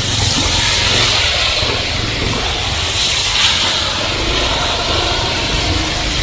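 Heavy rain falling in a steady downpour, with a low vehicle engine rumble underneath that fades in the middle and comes back near the end.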